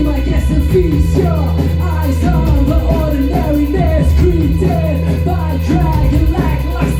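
Post-punk band playing live, loud and steady: sustained bass notes shifting every second or two under a repeating melodic riff.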